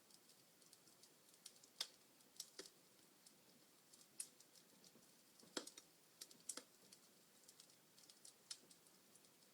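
Wood fire crackling: burning logs giving off scattered sharp pops and snaps at irregular intervals over a faint hiss, the loudest pops about two and five and a half seconds in.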